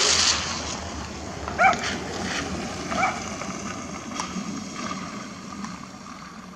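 A dog barking twice, two short yelps a little over a second apart, over a steady background hiss.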